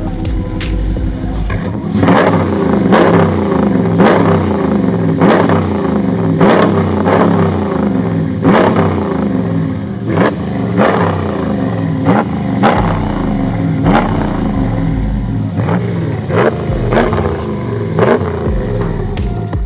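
Engine of a lifted 2017 vehicle revved repeatedly through its aftermarket exhaust: quick throttle blips about once a second, the pitch jumping up and falling back each time.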